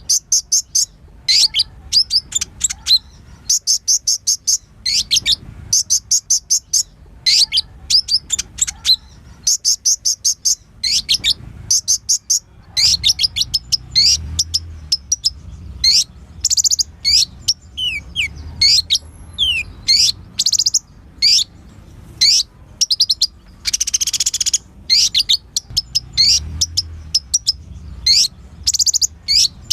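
Kolibri ninja sunbird singing: rapid high trills and sharp chirps in quick, repeated bursts, with a faint low rumble underneath.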